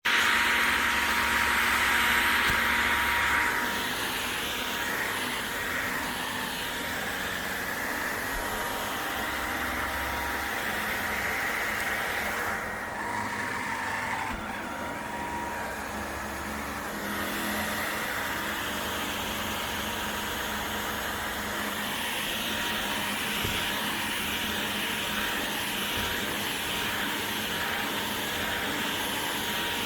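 Household vacuum cleaner running steadily with a whirring hum; it is louder for the first few seconds, and its high hiss thins out for a few seconds about halfway through.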